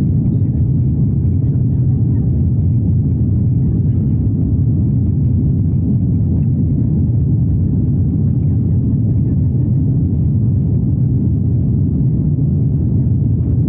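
Steady low rumble inside the cabin of an Airbus A330-900neo: the Rolls-Royce Trent 7000 engines and airflow, unchanging throughout.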